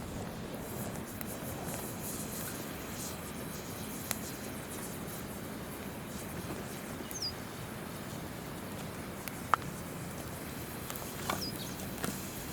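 Campfire wood crackling with scattered sharp pops, the loudest about three-quarters of the way through, over the steady rush of a river. Two short, high, falling bird chirps.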